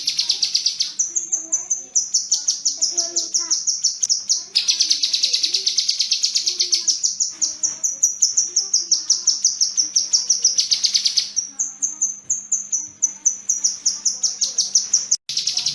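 Kinoi bird singing: long trills of fast, evenly repeated high chips, about eight to ten a second, in phrases of a few seconds separated by brief pauses.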